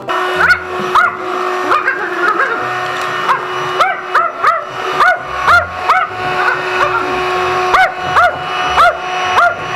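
Yorkshire terrier barking rapidly and angrily, about two sharp barks a second, at a running vacuum cleaner whose motor whines steadily underneath.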